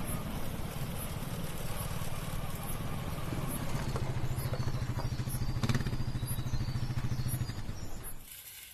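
A motor vehicle engine running steadily with a low hum, fading away near the end.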